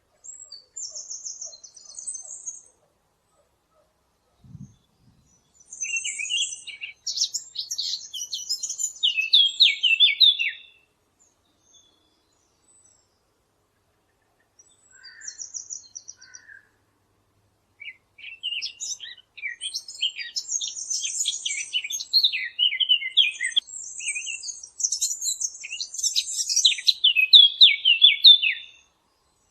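Songbirds singing in several bouts of rapid, high chirps and trills, with short silent gaps between them; the longest and busiest stretch runs through the second half.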